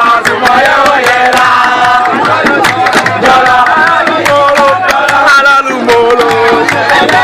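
Voices singing a melody over fast, steady hand-percussion strokes.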